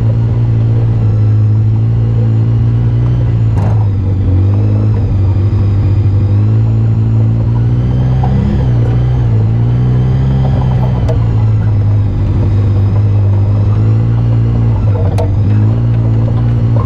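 Off-road vehicle engine running while riding a trail, its pitch rising and falling gently with the throttle. Two sharp knocks come through, one about four seconds in and one near the end.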